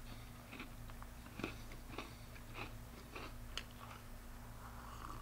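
A person chewing a frozen peanut butter MoonPie, with faint crunches about twice a second.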